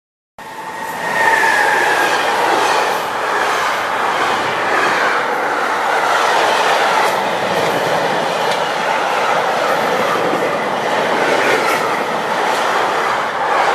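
Freight train of covered wagons running past: a steady rattle of wheels on rail with repeated clacks over the rail joints. A brief high wheel squeal comes about a second in. The sound starts suddenly about half a second in.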